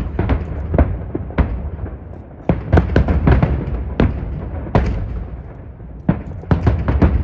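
Aerial fireworks shells bursting in quick succession: sharp bangs over a rumbling low end. They thin out for a moment around the middle, then come thick and fast again near the end.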